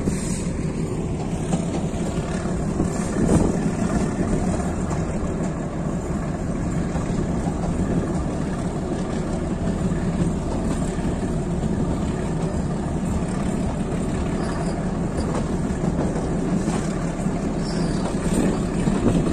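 Metre-gauge passenger train running along the track: a steady rumble of the coach and its wheels.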